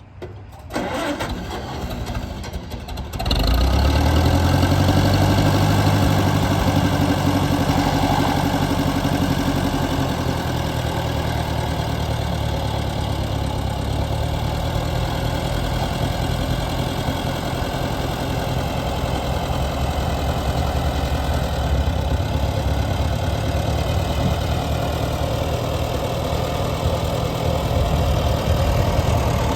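1955 Oliver Super 55 tractor's four-cylinder gasoline engine being cranked by the starter for about two seconds, catching about three seconds in, then settling into a steady idle.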